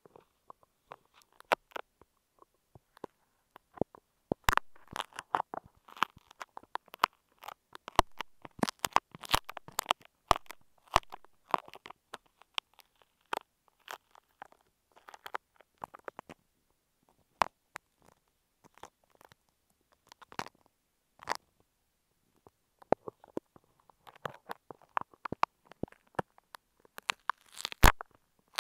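Close-miked crackling and crunching as a clump of apple-snail-egg-like beads is picked apart and extracted, heard on an earphone microphone: many small irregular clicks, thinning out for a few seconds past the middle before picking up again.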